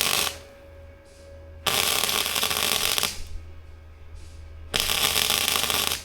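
Wire-feed welder arc crackling in short bursts with the gun held in one spot, building balls of weld. One burst cuts off just after the start, then two more follow, each about a second and a half long.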